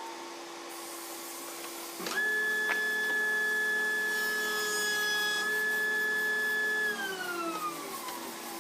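An electric power tool's motor starts about two seconds in and runs at a steady whine for about five seconds, then is switched off and winds down with falling pitch. A steady low machine hum runs underneath.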